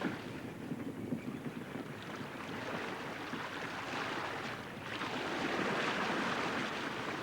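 Rushing wind and sea wash of a sailing yacht under way, a steady noise that swells about four seconds in.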